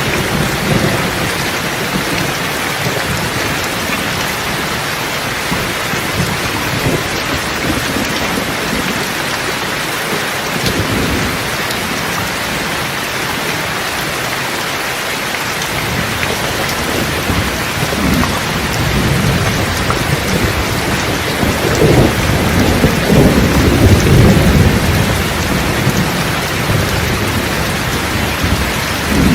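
Thunderstorm: steady heavy rain hissing, with thunder rumbling under it, the rumble building near the end.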